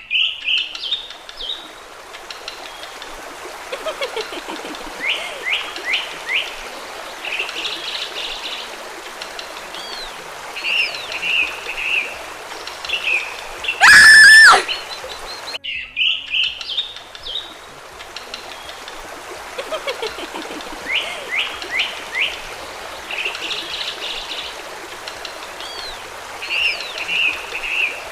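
Birdsong ambience of chirps, trills and short calls over a steady trickling stream. About halfway through, one much louder bird call with a clear pitch lasts about a second and a half, and the chirping pattern then repeats as a loop.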